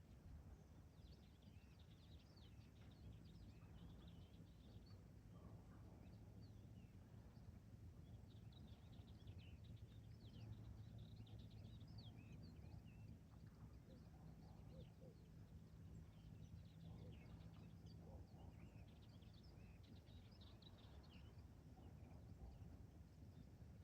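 Faint birdsong: many short, quick chirps and twitters scattered throughout, over a low steady rumble of outdoor background noise.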